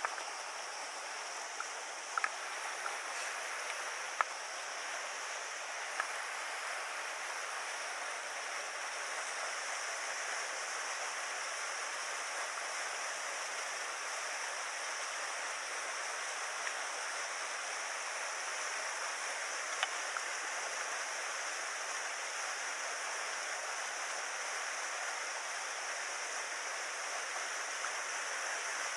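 Mountain stream flowing, a steady rush of water, with a few light clicks in the first several seconds and once more later.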